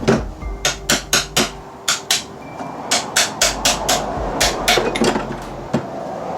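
Hammer striking metal in quick runs of sharp blows, several a second, with a short pause partway through: driving the bearing caps of a driveshaft U-joint in its yoke.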